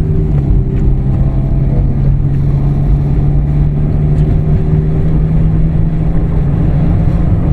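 Car engine running steadily under acceleration, heard from inside the cabin, with a constant hum. This is a road test of an automatic transmission that slams into drive, which the mechanic puts down to shift solenoids that no longer work.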